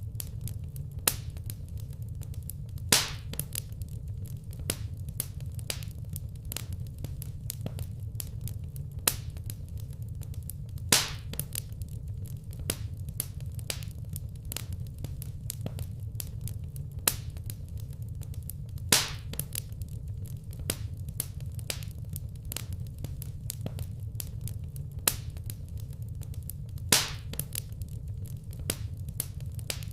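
Wood fire crackling in a fireplace: a steady low rumble with frequent small sharp crackles and a louder pop about every eight seconds.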